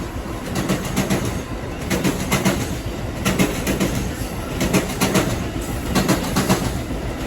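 A train passing close by, its wheels clicking over the rail joints in a steady run of repeated clicks over a continuous rumble.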